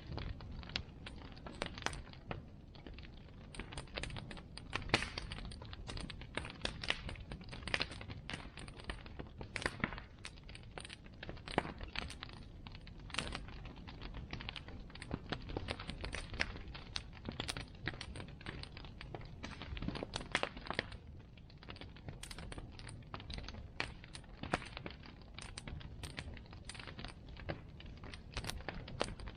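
A bonfire burning, its wood crackling and popping irregularly over a low steady rumble.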